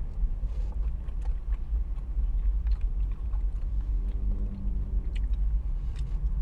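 Close-up chewing of a fried chicken nugget, with small wet mouth clicks, over a steady low rumble in the car cabin.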